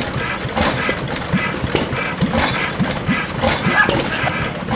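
Antique stationary gas engines running, with slow, uneven exhaust pops at about two a second over a steady background din.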